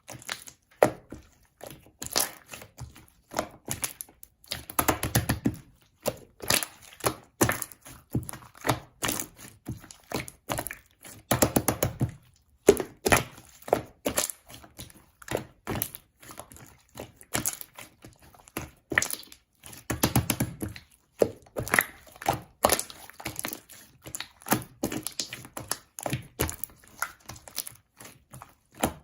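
Slime being pressed, poked and squeezed by hand, making irregular sticky clicks and pops with a few longer squishes in between.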